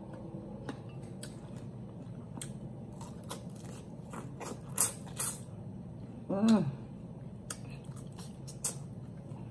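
Close-up mouth sounds of a person biting and chewing meat off a rotisserie chicken neck bone: irregular wet smacks and crunchy clicks. A brief hum comes about six and a half seconds in.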